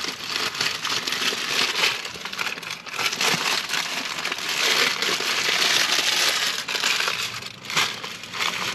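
Fast-food packaging crinkling and crackling as it is handled and opened, a dense run of quick crackles.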